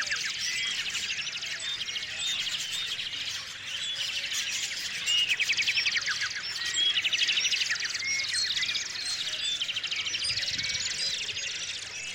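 Several small songbirds chirping and calling over one another, with rapid trills about five, seven and nine seconds in.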